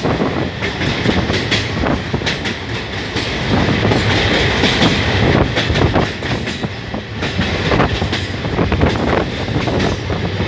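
A train running over a railway bridge, heard from on board: a steady, loud rumble with repeated clatter of wheels over rail joints.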